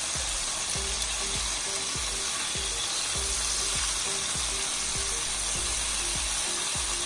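Thin chicken breast cutlets sizzling steadily as they pan-fry in vegetable oil, with occasional light clicks of metal tongs as the pieces are turned over.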